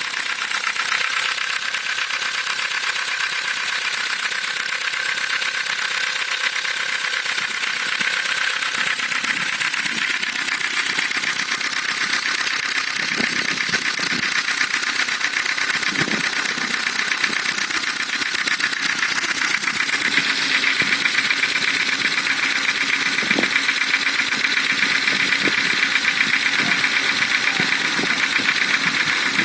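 Ford Focus II engine running steadily with a fast, even knock.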